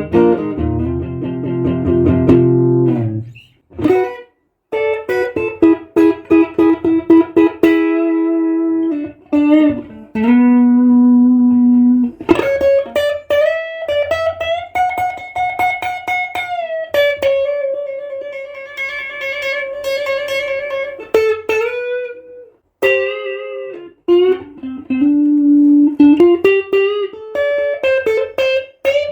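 A 1976 ash-body Stratocaster-style electric guitar played in a demo: a chord at the start, then a slow lead line of single sustained notes with string bends and vibrato, with short pauses between phrases.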